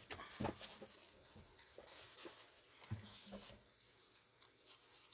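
Faint, scattered sounds of paper and card being handled and marked on a table: soft rubbing with a few light taps.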